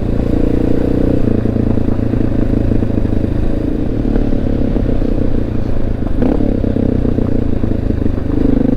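Honda XR650L's single-cylinder four-stroke engine running at a steady cruise, with gravel crackling and clattering under the tyres. A single knock comes about six seconds in.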